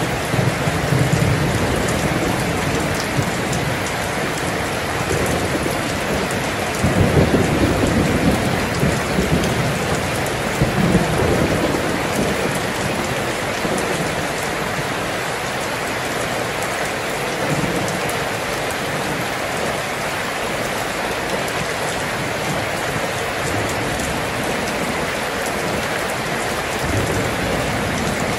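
Heavy rain falling steadily, with low rumbles swelling beneath it about seven and eleven seconds in.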